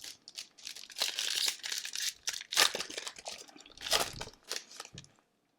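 A hockey card pack's wrapper being torn open and crinkled: a run of irregular crackling rustles that cuts off suddenly about five seconds in.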